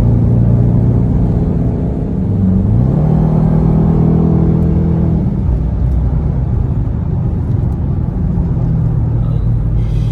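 Dodge Charger R/T's 5.7-litre Hemi V8 accelerating hard with road rumble. The engine note climbs about two and a half seconds in, holds, then drops away about five seconds in, leaving mostly road rumble until the note comes back near the end.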